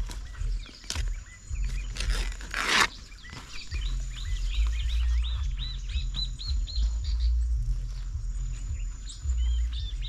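Small birds chirping in quick, high, repeated chirps, thickest in the second half. A brief rustle of dry grass and leaves comes about two seconds in, over a low rumble.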